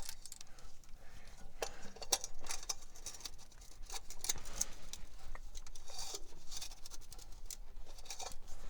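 Scattered light clicks and scrapes of hands handling small metal parts and tools.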